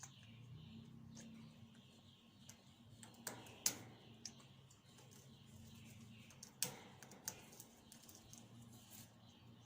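African grey parrot's beak snapping and crunching neem leaves: a few scattered sharp clicks, loudest a little over a third of the way in and again past the middle, against near silence.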